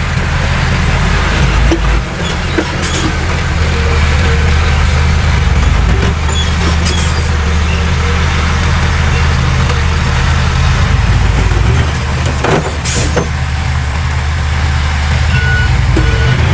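Heavy diesel engine of earthmoving machinery running steadily, with a few short knocks, the loudest about thirteen seconds in.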